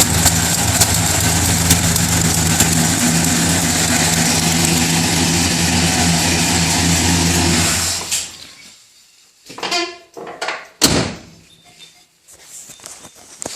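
Oldsmobile 350 Rocket V8 idling with a ticking noise from one cylinder, which the owner takes for a lifter tick or possibly an exhaust leak; the engine stops about eight seconds in, followed by a few knocks.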